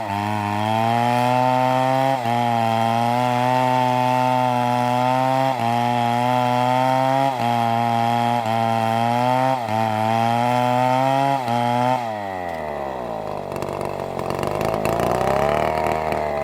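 Chainsaw at full throttle cutting through wood, its pitch sagging briefly every second or two as the chain bogs under load. About twelve seconds in, the throttle is released and the engine winds down, then it revs up and falls away again near the end.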